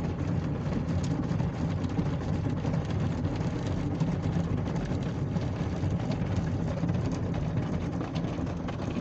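Belanger Freestyler soft-touch car wash running, its rotating top brush moving onto and over the car's hood, heard from inside the car: a steady low rumble with many faint ticks.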